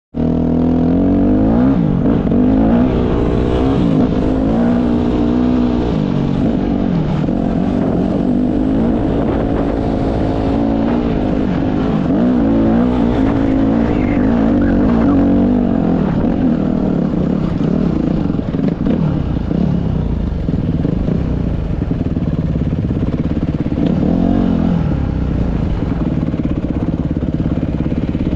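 Dirt bike engine revving up and down as the bike is ridden, its pitch rising and falling repeatedly for the first half, then running more steadily.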